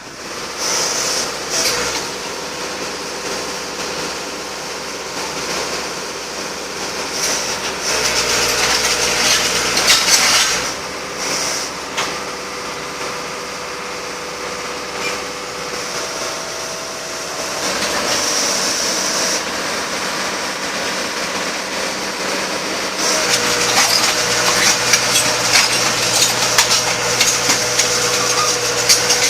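Backhoe on steel wheels travelling on a concrete road: the engine runs steadily under a clatter and scrape of metal on concrete, which gets denser in the last few seconds.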